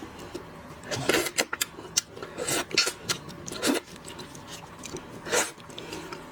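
Shrimp shells being cracked and peeled by hand at close range: irregular crackling and rubbing scrapes in a few clusters.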